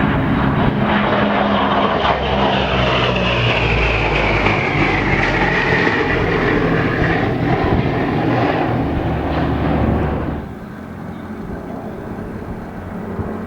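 P-38 Lightning's twin Allison V-12 engines on a low pass, with a high whine that falls steadily in pitch as the plane goes by. About ten seconds in the sound drops abruptly to a quieter, steady background.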